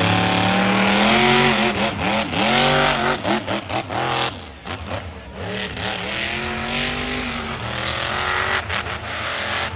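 Monster truck engine revving hard, its pitch swinging up and down, then easing off sharply about four seconds in and running lower and steadier.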